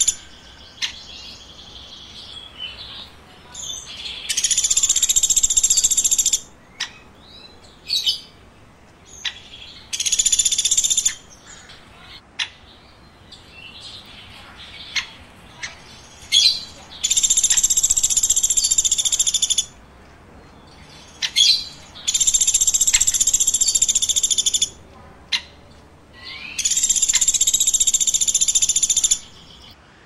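A bird calling: five loud, high trilled bursts of about two seconds each, with short sharp single notes between them.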